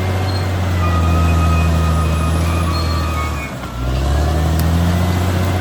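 Caterpillar D6R XL bulldozer's diesel engine running steadily, easing off briefly about three and a half seconds in and then picking back up, with faint thin high whines over it.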